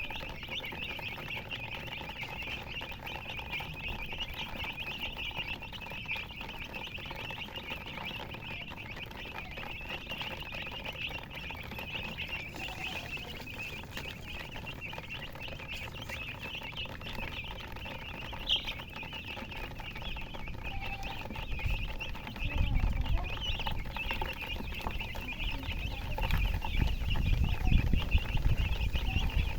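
A flock of baby chicks peeping continuously, a dense chorus of high chirps. Low rumbling thumps join in during the last third.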